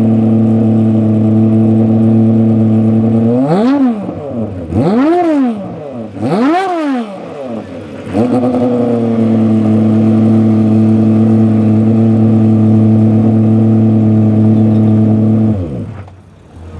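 Aston Martin Vulcan's 7.0-litre V12 idling, then blipped three times in quick succession, each rev rising and falling back. It settles to a steady idle and is switched off near the end, the pitch sinking as it dies.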